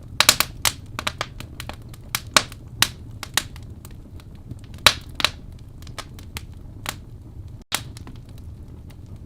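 Wood fire burning in a fireplace: irregular sharp crackles and pops over a steady low rumble of the flames. The sound cuts out for an instant about three-quarters of the way through.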